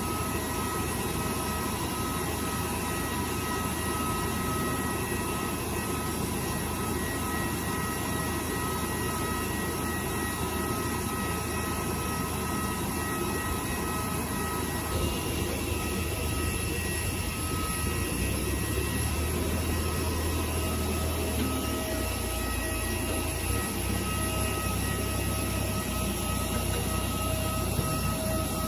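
Aircraft engine noise: a steady drone with several high whining tones over a low rumble. About halfway through the whine changes pitch, and the low rumble grows stronger in the last third.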